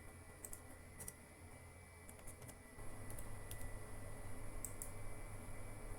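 Faint, scattered computer keyboard keystrokes and mouse clicks, about ten separate clicks, over a low steady hum that gets a little louder about three seconds in.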